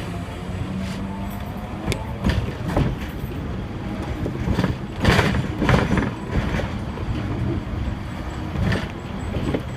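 Hong Kong double-decker electric tram running, heard from on board: a steady low rumble with a low hum, broken by irregular sharp knocks and clatters of the wheels on the track, loudest about five to six seconds in.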